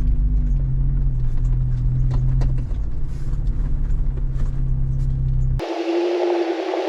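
Jeep Wrangler driving slowly on a dirt road: a steady low engine and tyre rumble with small knocks and rattles. About five and a half seconds in it cuts off suddenly to a steady hissing hum.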